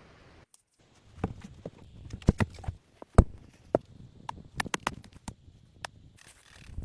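Irregular sharp knocks and clicks of wood being handled, as sticks and branches are moved and set in place, after a brief dead silence about half a second in.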